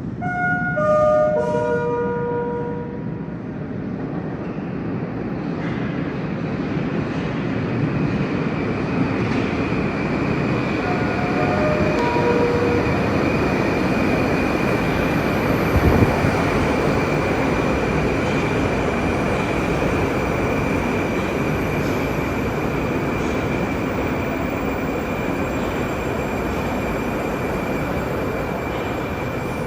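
Moscow Metro train running, with steady wheel and running noise and a high, steady electric whine throughout. A short descending chime of tones sounds about a second in, and a fainter one around twelve seconds in; there is a brief thump midway.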